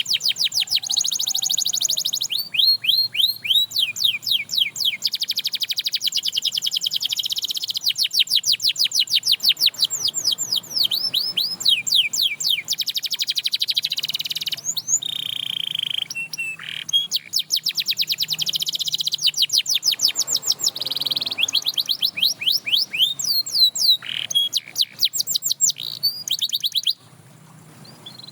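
Domestic canary singing a long song of rapid trills: fast runs of repeated sweeping notes, many per second, changing phrase every second or two, with some held high notes in between. The song breaks off briefly near the end.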